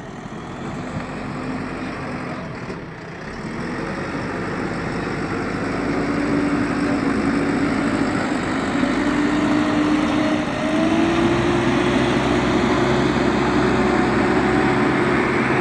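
Heavy diesel engine running under load, getting louder and revving up, with a whine that climbs in pitch. About eleven seconds in, the engine note deepens and holds steady.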